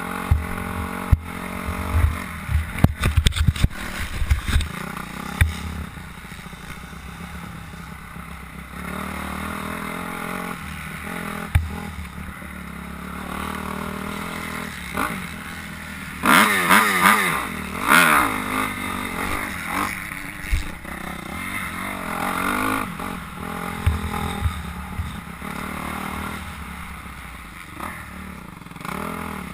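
Motocross dirt bikes revving around the track, the engine pitch rising and falling as the riders work the throttle. One bike comes loud about halfway through. Low thumps near the start.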